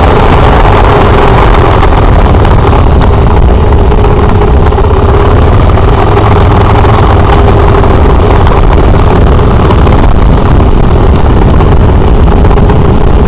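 Motorcycle engine running steadily while riding, heavily mixed with wind rushing over the microphone; loud and unbroken throughout.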